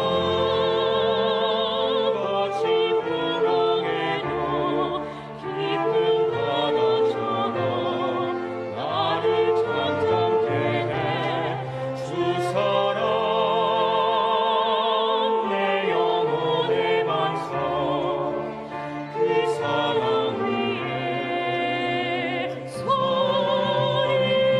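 Church choir singing an anthem with instrumental accompaniment, sustained chords with vibrato in the voices.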